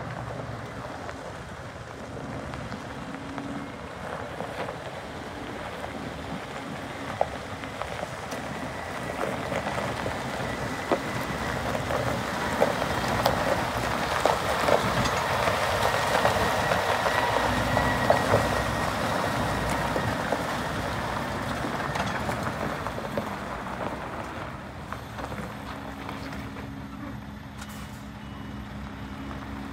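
Scania R580 truck with its V8 engine running. The sound swells through the middle, with rattles and clicks over it, then settles to a steadier hum near the end.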